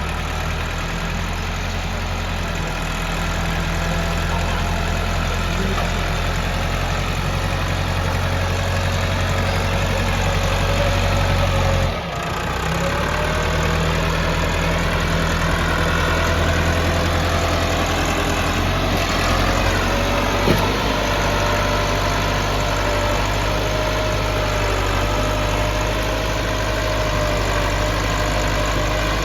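Massey Ferguson 385 tractor's diesel engine running steadily, with a brief drop about twelve seconds in and a single click later on.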